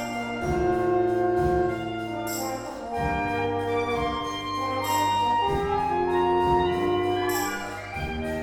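School wind band playing a slow passage: held brass chords from trumpets, trombones and horns shifting every second or so, with three crashes about two and a half seconds apart.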